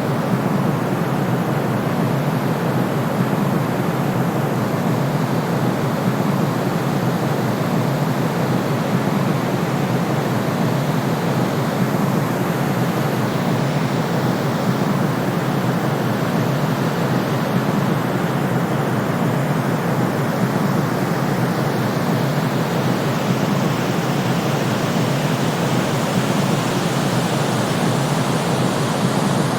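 Steady white noise for sleep, an even unbroken hiss. It is heavier in the lows and mids than in the highs and has no deep rumble.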